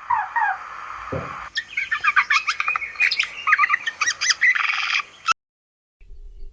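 Songbirds singing: sliding whistled notes at first, then from about a second and a half in a busier run of rapid, quick chirps. The song cuts off suddenly a little after five seconds, and a faint low hum follows.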